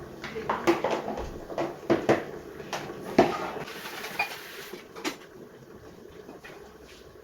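Peeled garlic cloves being handled and dropped into a mixer-grinder jar: a series of irregular light clicks and knocks that die away after about five seconds.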